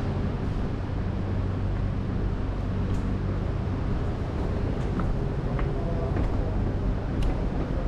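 Triumph Speed Triple 1050 RS's inline three-cylinder engine running at a steady, unchanging pitch.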